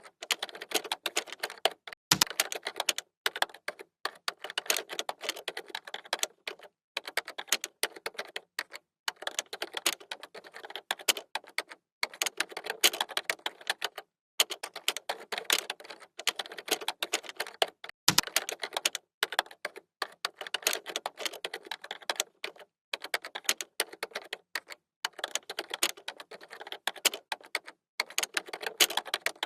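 Computer keyboard typing: fast runs of clicking keystrokes broken by brief pauses, with a heavier thump of a key twice.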